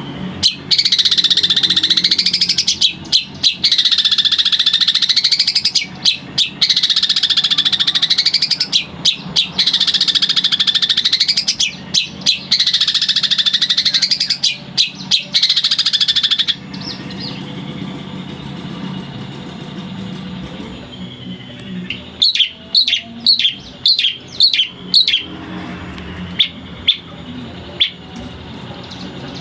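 Long-tailed shrike (cendet) singing: a run of loud, buzzy phrases that rise and fall in pitch, about two seconds each, through the first half. After a pause comes a quick series of short sharp notes, then a few single notes near the end.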